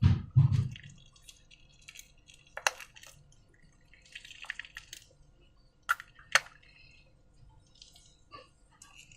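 Slime being handled, giving wet, sticky clicks and small squelches, with two low thumps at the start and a few sharper clicks spread through.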